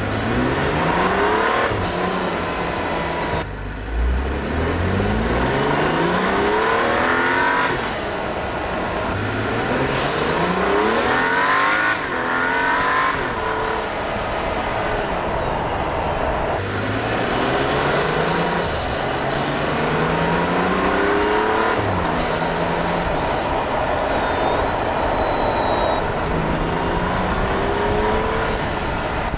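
BMW 335i's N55 turbocharged inline-six pulling hard through the gears: engine pitch climbs, drops at each shift, then climbs again, several times over. A high turbo whistle rises with the pulls and falls away when the throttle closes.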